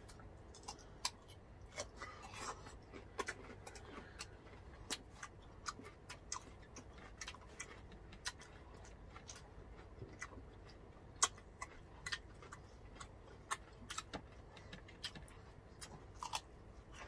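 Eating sounds: chewing with many sharp, irregular mouth clicks and crunches, about one or two a second, as grilled food and a raw cucumber are bitten and chewed. One louder click comes about eleven seconds in.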